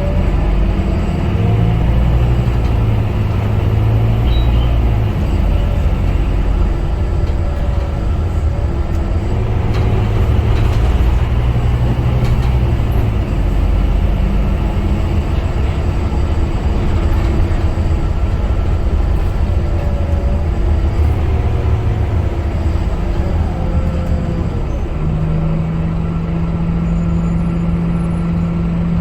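Scania K250UB city bus's diesel engine running under way, its low drone rising and falling in pitch as it pulls and eases off, with a faint whine gliding up and down. A steady low hum sets in near the end.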